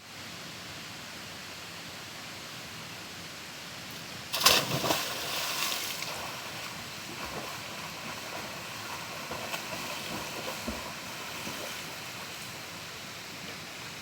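Steady rush of flowing water from a waterfall. About four seconds in, a sudden loud burst of knocks and noise rises above it for a second or two.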